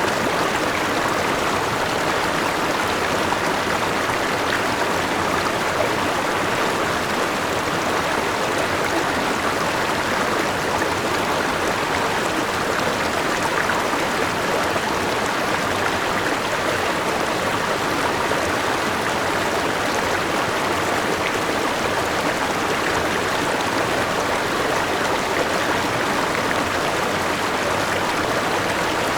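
Forest river flowing over rocks, a steady rush of running water that stays even throughout.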